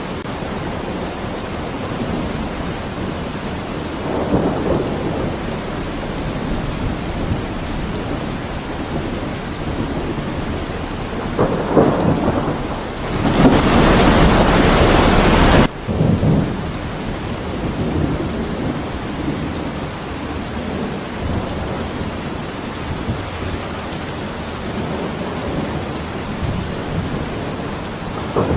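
Steady heavy rain in a thunderstorm, with rolls of thunder swelling around a few seconds in and again before the middle. About halfway through, a loud surge of rain and thunder lasts about two seconds and cuts off suddenly.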